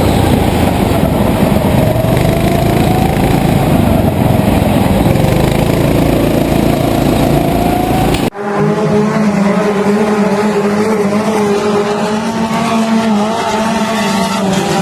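Racing engines running loud, their pitch wavering up and down. About eight seconds in, an abrupt cut switches to a different engine sound with a clearer, steadier note.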